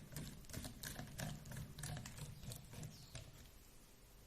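Faint clicking and scratching of a small screwdriver undoing tiny screws on a 1/16 RC drift car's chassis. The sound eases off about three seconds in.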